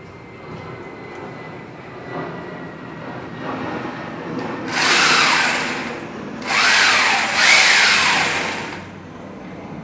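Kainuo KN8267 800 W hammer drill running: a low, quieter running sound at first, then about halfway in three loud bursts in which the motor's pitch rises and falls as it speeds up and slows down.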